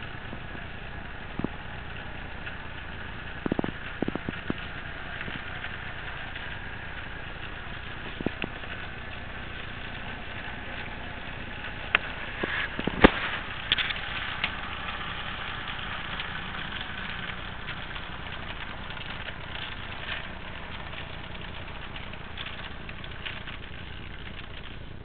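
HO scale model diesel locomotive running on the layout: a steady hum with scattered sharp clicks, the loudest a cluster about halfway through.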